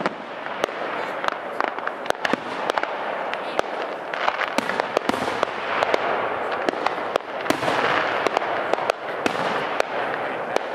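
Aerial fireworks display: many sharp bangs and pops from bursting shells, several a second, over a continuous crackling hiss that swells about halfway through and again near eight seconds in.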